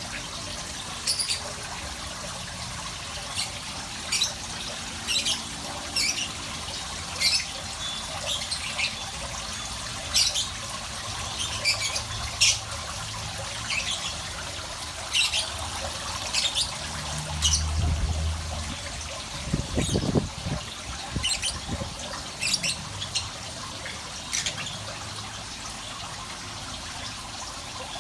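A small bird gives short, sharp chirps about once a second over steady trickling water. About two-thirds of the way through there is a brief low rumble and a few knocks.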